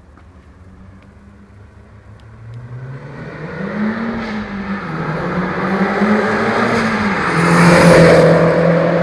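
Audi TT's engine growing louder from about two and a half seconds in, its pitch rising and falling twice as the revs climb and drop, and loudest near the end.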